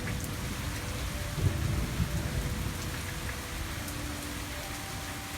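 Steady rain falling during a thunderstorm, with a low rumble of thunder swelling about a second and a half in.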